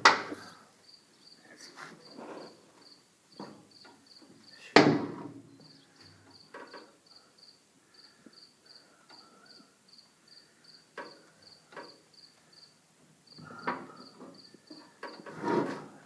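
A cricket chirping steadily, about two to three short high chirps a second, with a loud sharp knock about five seconds in and a few fainter knocks and rustles.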